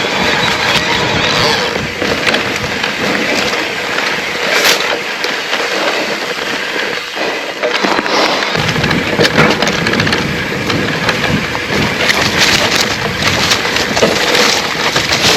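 Electric mountain bike riding over rough single track: a continuous rush of tyre noise with many rattles and knocks from the bike going over bumps. The low rumble picks up about two-thirds of the way through.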